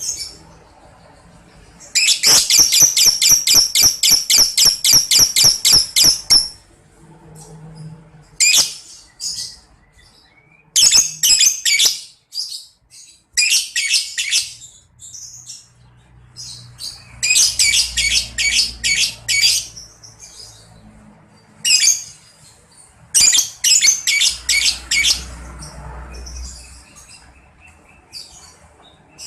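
Lovebird ngekek: long runs of rapid, high-pitched chirps repeated several times a second. One long bout of about four seconds comes early, followed by several shorter bouts with brief pauses between them.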